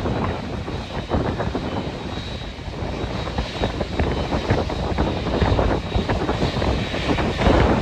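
Airliner engines running, heard through heavy wind buffeting on the microphone, with a faint high whine in the middle.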